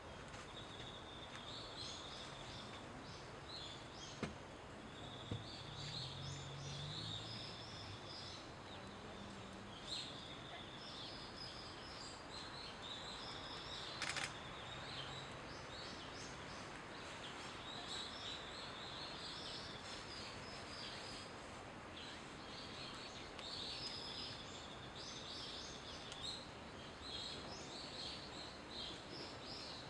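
Birds calling over and over in short high-pitched phrases, some held as a steady note, over a steady outdoor hiss, with a few sharp clicks.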